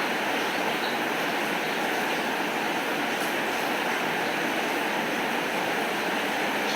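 Steady rain falling, an even hiss with a few faint high ticks.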